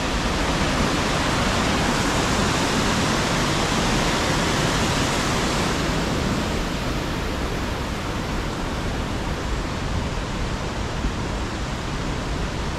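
Steady, dense rush of the Upper Düden Falls, water pouring down on the Düden River, easing slightly after about six seconds.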